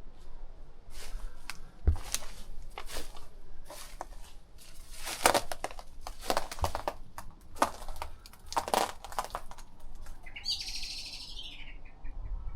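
A run of irregular noisy strokes, then a small bird singing near the end: a quick, dense run of high notes falling in pitch over about a second and a half.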